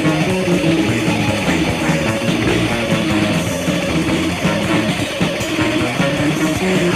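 Rock music, an instrumental passage with electric guitar and no vocals.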